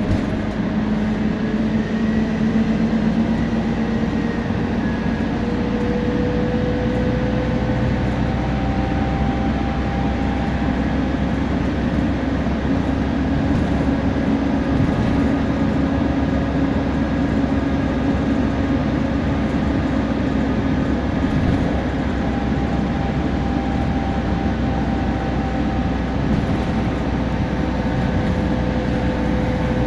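Temsa Prestij SX midibus under way: a steady engine drone with a thin whine that slowly rises in pitch and settles a few times, the differential and turbo whine of the drivetrain.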